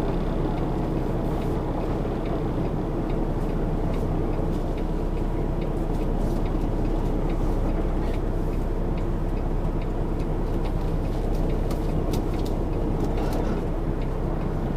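Semi truck's diesel engine running steadily at low speed during a slow backing manoeuvre, with scattered light clicks over the drone.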